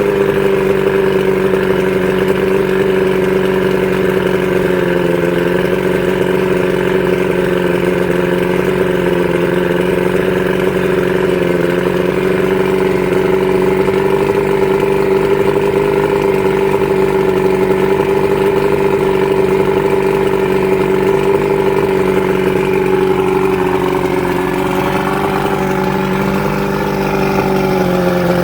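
Johnson 115 HP two-stroke V4 outboard running steadily out of the water, firing on all four cylinders. It is loud because there is no water to muffle the exhaust. Its speed sags a little near the end and picks back up.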